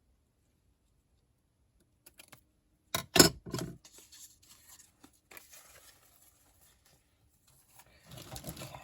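Craft materials being handled on a desk: a few small clicks, then a loud knock of something set down about three seconds in, followed by soft rustling of paper and trim that grows louder near the end.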